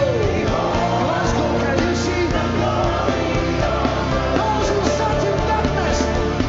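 Live gospel worship music: a band playing steadily with singing voices over it.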